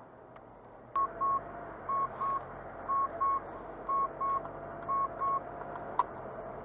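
Car's electronic warning chime: five pairs of short, high beeps, about one pair a second, over a low hum that comes on with a click about a second in. A single sharp click near the end.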